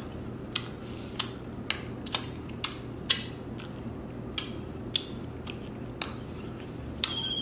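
Close-miked mouth sounds of chewing: sharp wet smacks and clicks about twice a second. A steady high beep starts just before the end.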